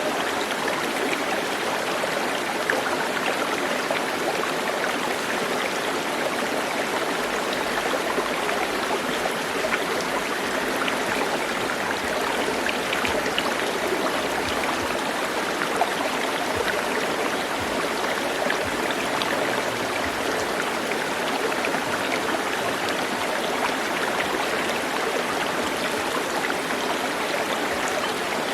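Steady rush of flowing stream water, an even splashing with no pauses.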